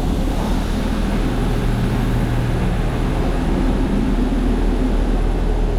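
Steady engine and air noise inside an airliner's cabin in flight, with a constant low hum underneath.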